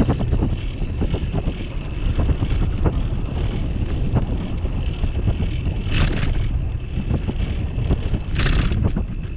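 Wind buffeting a bicycle-mounted microphone during a ride: a steady low rumble with many small knocks from the bike and mount over the path. Two brief hissing bursts come about six and eight and a half seconds in.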